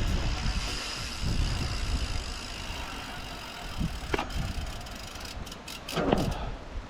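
Wind rushing over the microphone and tyre rumble from bicycles coasting fast downhill, with two short high squeals or cries about four and six seconds in.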